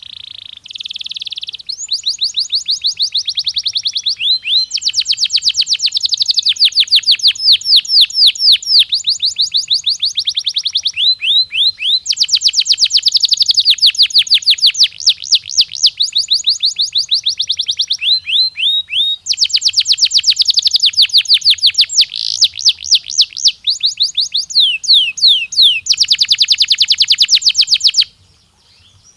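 Domestic canary singing a long song of rapid trills, each a fast run of the same sweeping high note, changing to a new trill every few seconds. It stops abruptly near the end.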